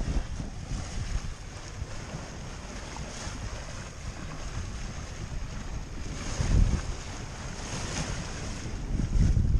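Wind buffeting the microphone over the wash of water along a sailboat's hull under way, with louder low gusts about two-thirds of the way in and again near the end.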